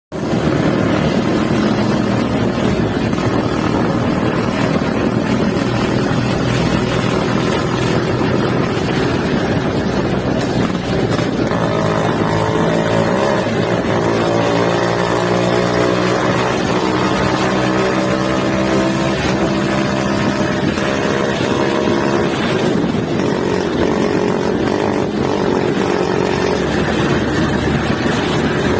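Modified Vespa scooter's engine running steadily and loudly, with a clearer pitched hum for a stretch about ten seconds in.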